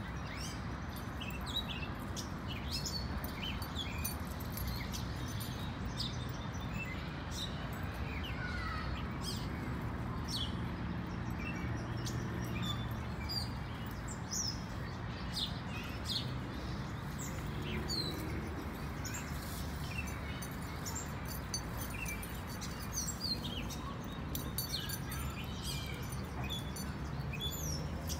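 Small birds chirping: many short, high chirps, some sliding down in pitch, scattered throughout over a steady low background rumble.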